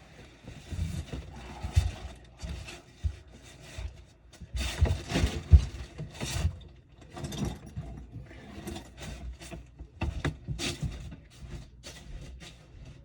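Irregular knocks, scrapes and rubbing of parts and tools being handled, with a cluster of louder knocks about five seconds in.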